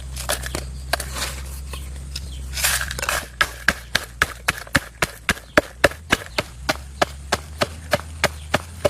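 Rustling and scattered knocks, then about three seconds in a blade starts chopping on wood with quick, even strokes, about three a second.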